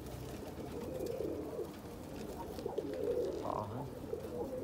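Domestic pigeons cooing, several birds at once in a continuous overlapping low warble.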